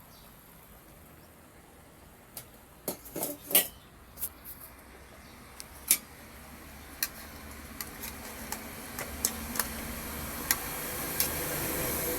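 A metal utensil knocking and clinking against a cooking pot: a cluster of sharp knocks a couple of seconds in, then lighter ticks every half second or so. A steady rushing noise grows louder toward the end.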